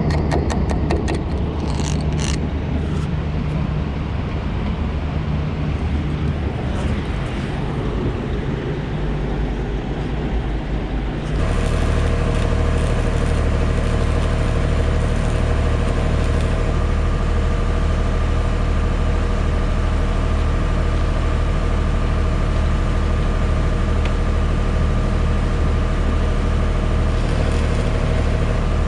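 Clicks and rattling, then, about a third of the way in, an engine starts running steadily. The drone comes in abruptly, with a low hum and a few steady tones, and holds unchanged.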